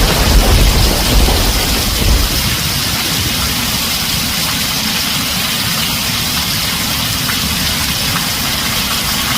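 Heavy rain drumming steadily on a tin roof, with a low thunder rumble dying away over the first two seconds or so.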